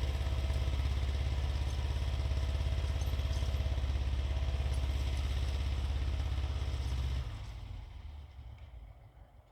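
Xingtai 220 tractor's engine running steadily, then dropping off sharply about seven seconds in and fading away over the next two seconds.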